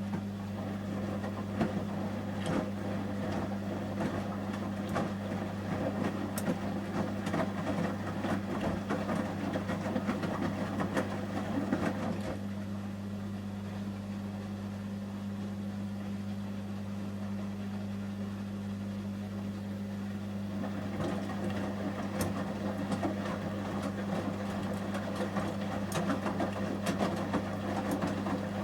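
Samsung Series 5+ AI front-loading washing machine tumbling a load of shirts during the heating stage of a 30°C wash: the drum turns with the sloshing and clunking of wet clothes for about eleven seconds, pauses for several seconds, then starts turning again about 21 seconds in, over a steady low hum.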